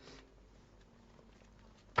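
Tarot cards being handled quietly: a faint brush at the start, then a single sharp tap of a card near the end.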